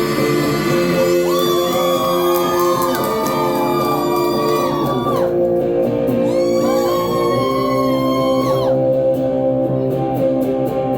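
Live stripped-down rock song: guitar chords ringing steadily under a high voice held in two long, bending phrases.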